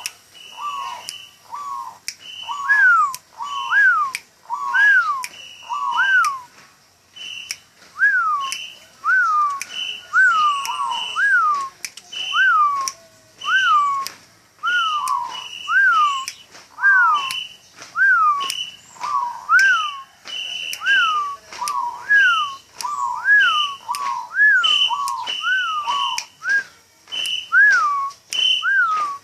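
Male zebra dove (perkutut) cooing over and over: phrases of short low coos and rising-then-falling notes, repeated about once a second with brief pauses, alongside a higher, steady whistle-like note that recurs throughout.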